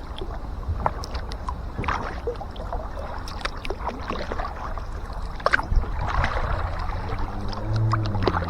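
Kayak being paddled: paddle blades dipping and splashing water in irregular strokes, over a steady low rumble of water and wind at the kayak-mounted microphone. Near the end a low steady drone joins in.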